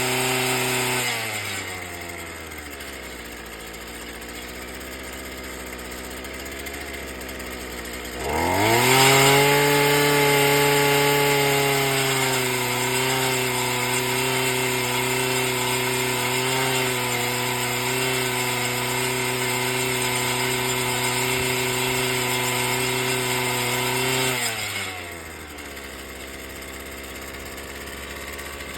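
Earthquake mini tiller's two-stroke engine: it drops from high revs to idle about a second in, idles, then revs up sharply at about eight seconds and holds at full speed for some fifteen seconds before dropping back to idle near the end.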